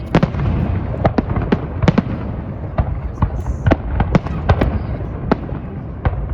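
Fireworks display going off: an irregular string of sharp bangs and cracks, two or three a second, over a steady low rumble.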